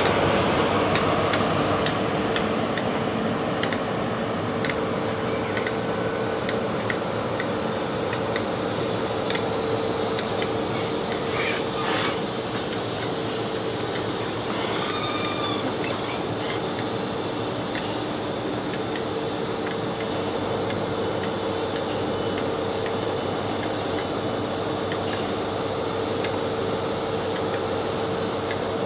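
Diesel power car of a GWR High Speed Train (Class 43) moving away along the platform, its engine sound fading over the first couple of seconds. After that, a steady rail-side drone with a constant hum, and a single sharp knock about twelve seconds in.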